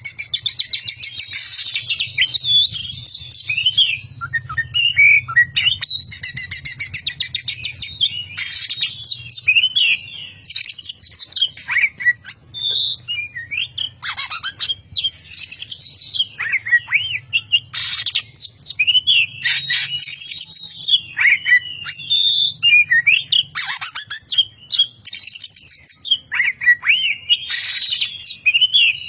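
Oriental magpie-robin (kacer) singing a continuous, loud song that mixes whistled notes sliding up and down with fast, harsh rattling trills, its mimicry of a lovebird's 'ngekek' chatter. A faint low hum runs underneath.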